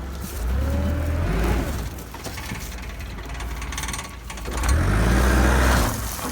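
An engine revving in two bursts, one about half a second in and another about four and a half seconds in, each held for a second or more before dropping back to a lower run.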